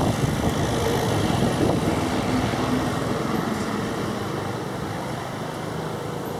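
Turboprop aircraft engine noise, a steady rumble with a faint hum, slowly fading.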